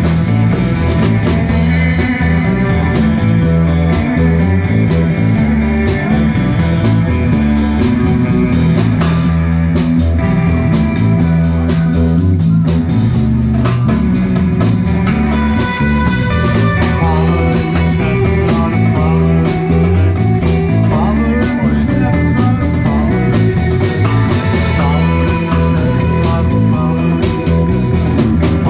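Live rock band playing an instrumental passage: lead guitar over bass and drums, loud and continuous.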